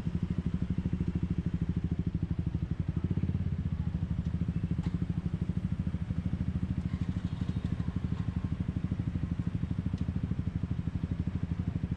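Motorbike engine running at a steady speed in city traffic, a low, even pulsing that keeps the same pace.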